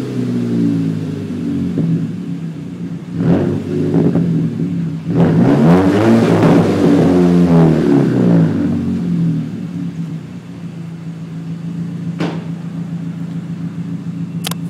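Volkswagen Passat 2.0T turbocharged four-cylinder's exhaust as the engine is revved while parked: a short blip about three seconds in, then a longer rev that climbs and falls back, settling into a steady idle. A couple of sharp clicks near the end.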